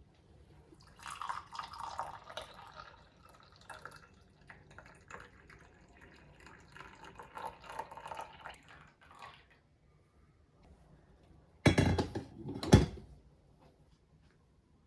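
Water running or pouring with small splashes and drips for several seconds, then two loud knocks.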